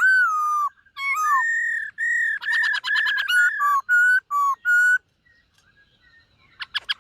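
Black-throated laughingthrush singing: a string of loud, clear whistled notes, some sliding down in pitch, then a short pause and a fast burst of short sharp notes near the end.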